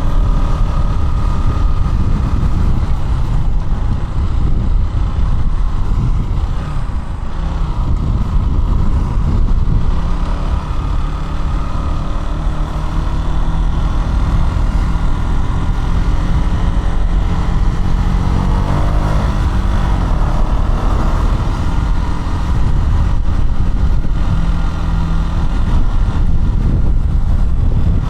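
KTM Duke 200's single-cylinder engine running under way, mixed with a heavy low rumble. The pitch slides briefly about two-thirds of the way through.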